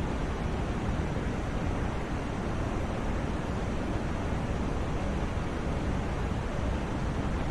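Continuous white noise for sleep: a steady, even rushing hiss with no changes, weighted toward the low end.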